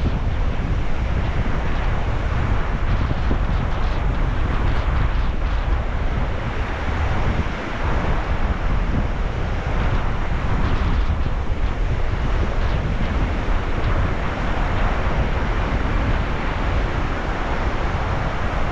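Sea waves washing in steadily, with wind buffeting the microphone as a low rumble underneath.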